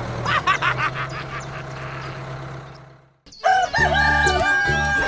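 A rooster crowing in a run of quick pulsed notes over a low steady hum, fading out about three seconds in; cheerful background music with a melody and bass then starts.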